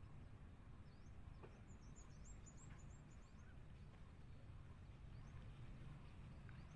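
Near silence with a steady low background rumble. About one and a half seconds in, a small bird gives a quick run of faint, high, thin chirps lasting about two seconds.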